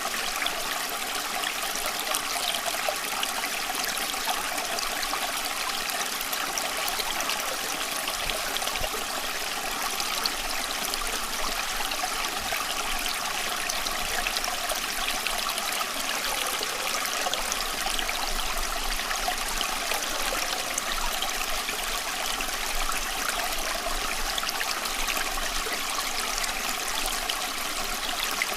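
Running water flowing steadily: an even rushing hiss full of fine splashing detail, keeping the same level throughout.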